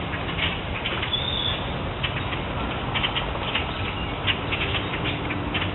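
A huge flock of blackbirds in flight: a dense, continuous din of wingbeats and many short chattering calls, with a few brief high whistles standing out.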